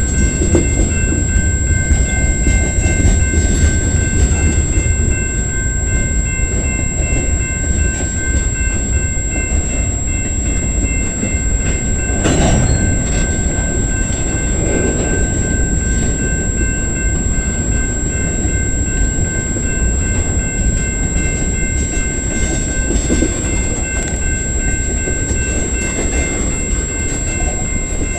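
Freight train of covered hoppers and tank cars rolling past close by: a steady rumble of steel wheels on the rails with some clickety-clack, thin steady high-pitched tones over it, and one louder knock about twelve seconds in.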